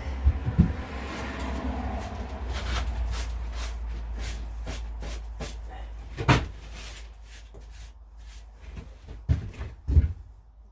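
Scattered knocks and clunks of hands working on a lawn tractor, loudest at the very start, about six seconds in and near the end, over a low rumble that fades out about seven seconds in.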